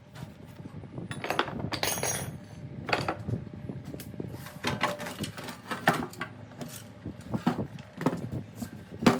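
Irregular knocks and clinks of metal parts and tools being handled during the strip-down of a plate compactor. One about two seconds in has a short metallic ring, and a sharp knock comes near the end.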